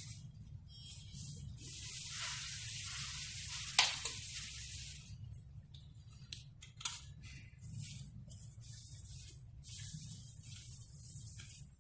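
Handling noises: rustling and scraping, with a sharp click about four seconds in and another near seven seconds, over a steady low hum.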